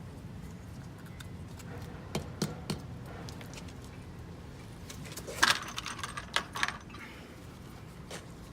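Metal concrete anchors clinking and being tapped into drilled holes with a hammer: a few light, irregular metallic taps, with the loudest cluster of knocks about five and a half seconds in.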